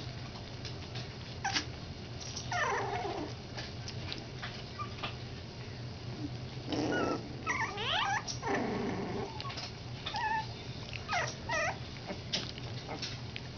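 Three-week-old schnauzer puppies whining and squeaking in short high calls that slide in pitch, several bunched around the middle and more near the end. Small clicks and scuffles run throughout, over a steady low hum.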